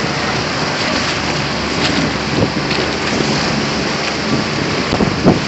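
Steady rushing noise of wind and water on an open boat underway, with a few short splashes or knocks about five seconds in.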